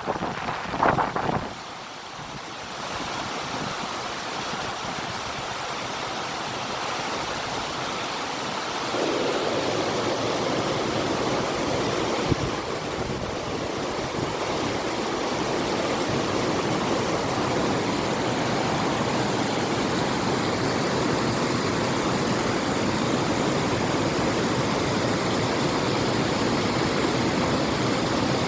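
River water rushing steadily, with wind. There is a short loud burst about a second in, and the rushing grows fuller about nine seconds in.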